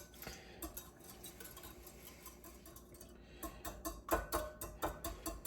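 Eggs being whisked in a bowl: the whisk taps and clicks against the bowl, faint at first and then quickening into a run of sharp taps several times a second about halfway through.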